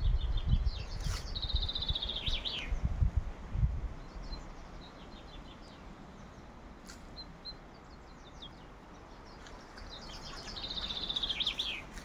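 A songbird singing the same short song twice, about a second in and again near the end: a few lead-in notes, then a fast trill that ends in a downward flourish, with fainter chirps in between. A low rumbling noise runs through the first four seconds.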